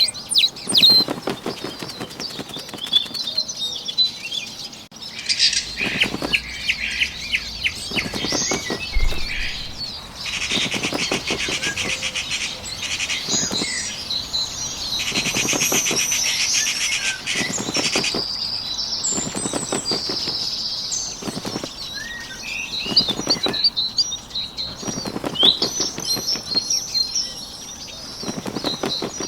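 A small bird's wings flapping in repeated flurries, over songbird chirps and trills.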